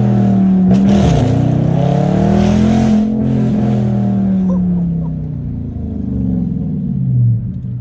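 Dodge Charger Scat Pack's 392 Hemi V8 under hard throttle, its exhaust loud for about three seconds, then the engine speed and level ease slowly down as it comes off the power.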